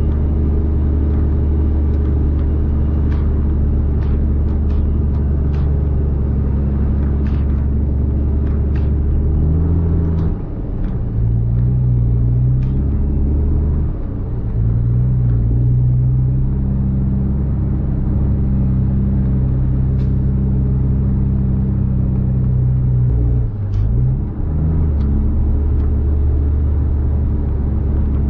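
Caterpillar C13 diesel engine of a Kenworth W900B dump truck running steadily, then picking up speed about ten seconds in, dipping briefly, climbing again, and settling back to its lower steady note near the end. Light clicks and rattles are heard over the first part.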